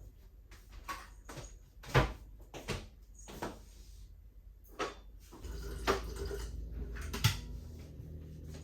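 A series of sharp knocks and clicks from objects being handled, about seven in all, the loudest about two seconds in, with a low steady rumble joining about five and a half seconds in.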